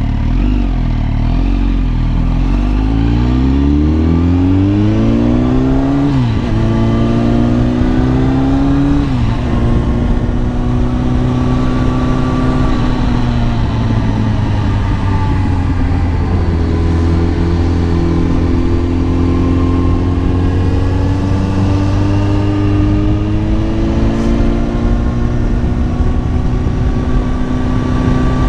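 Kawasaki ZX-10R inline-four engine accelerating hard, its pitch climbing and dropping sharply at upshifts about six and nine seconds in, then running at a fairly steady cruise with slow rises and falls in revs.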